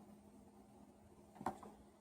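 Quiet room tone with a faint steady hum, broken by one short click about one and a half seconds in, followed by a fainter second tick.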